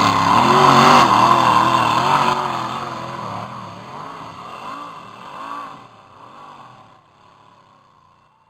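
Pulling tractor's engine running hard under load, its pitch rising and falling over and over, then fading away over the last several seconds.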